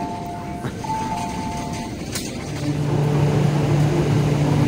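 A short electronic two-note chime sounds twice beside a train standing at the platform. Then an MTR Q-train electric train runs close by with a steady low hum from its traction equipment, growing louder.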